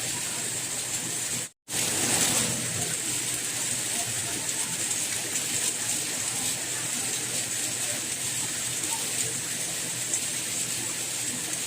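Steady rain, an even hiss of falling water with a bright high edge. About a second and a half in it cuts out completely for a split second, then comes back slightly louder for a moment.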